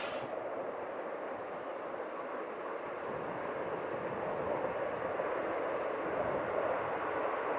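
A train running past with a steady rumble that gets slightly louder partway through.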